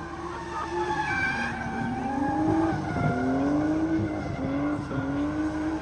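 Drift car engine revving hard, its pitch rising and falling about once a second as the throttle is worked, with tyres squealing as the car slides.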